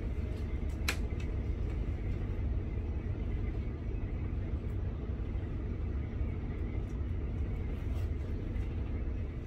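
Steady low rumble of a Dutch NS passenger train running along the track, heard from inside the carriage, with a single sharp click about a second in.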